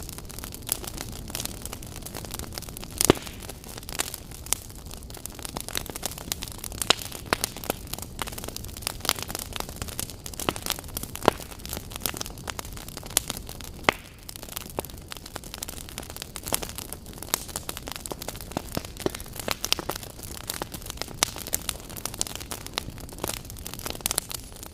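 Wood fire in a fireplace crackling, with irregular sharp pops over a steady low hiss; a few pops stand out louder than the rest.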